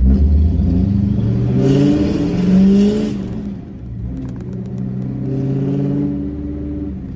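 1987 Ford F-150's engine revving: its pitch climbs, falls away about three and a half seconds in, then climbs again more quietly. It is a sound its owner likens to a new Mustang's Coyote 5.0.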